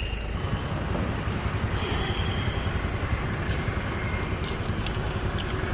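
A motor engine running steadily with a rough low rumble.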